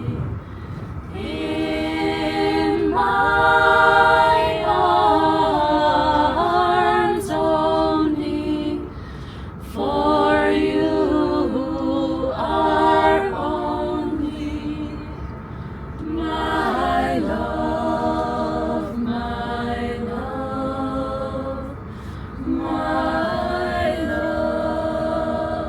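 Youth choir singing a cappella, in four phrases with short breaks between them, over a steady low rumble of the moving train.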